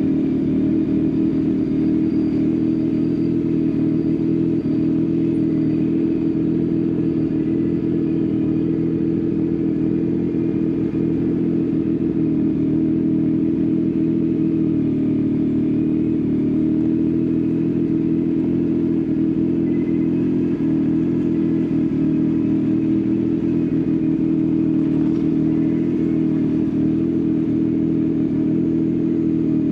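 Yamaha XSR900's inline three-cylinder engine through an Akrapovič exhaust, held at a steady engine speed with no revving.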